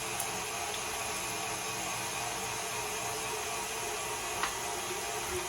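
KitchenAid stand mixer motor running steadily, driving a food grinder attachment grinding chicken, with an even whir at constant speed.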